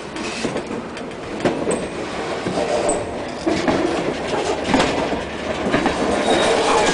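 Union Pacific train rolling on the rails, a steady rumble and clatter of wheels with clicks and short squeals, growing louder.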